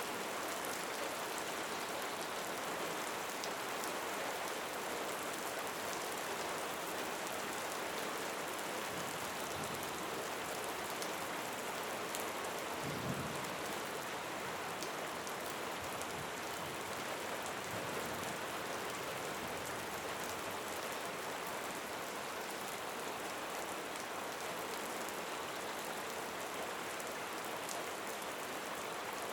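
Steady rain falling, an even hiss of many small drop ticks, with a brief low thud about thirteen seconds in.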